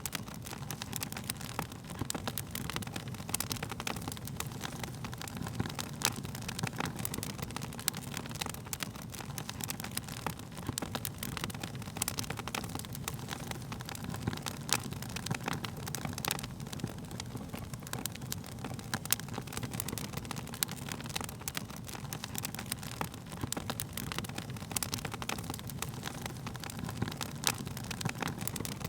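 Wood fire crackling, with frequent irregular pops and snaps over a steady low rumble of burning flames.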